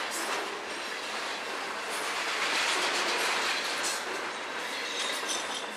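CSX freight train's locomotives passing close by at speed: a steady rush of wheels on rail with repeated clicks over the rail joints.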